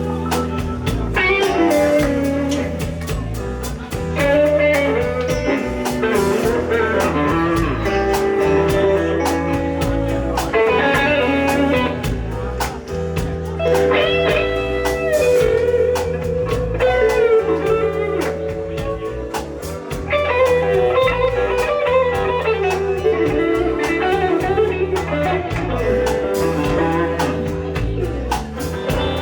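Live blues band playing an instrumental passage: electric guitar lead lines with bent, gliding notes over bass and drums.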